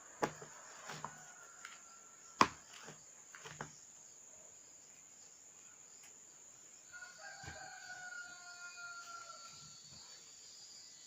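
A few sharp clicks in the first four seconds, the loudest about two and a half seconds in, then a rooster crowing faintly for about three seconds, its pitch falling a little.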